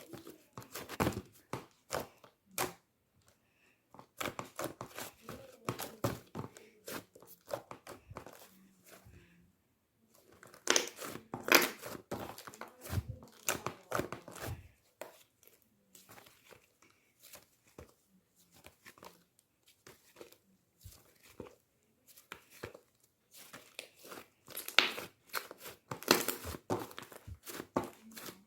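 Cheese slime being squeezed, stretched and pressed by hand, giving irregular runs of crackling, sticky clicks. There are brief pauses and a quieter stretch in the middle.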